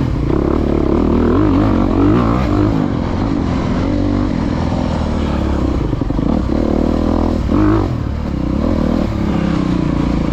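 Off-road dirt bike engine revving up and down as the rider works the throttle through a woods trail, with the pitch rising and falling every second or so, plus some rattling from the bike.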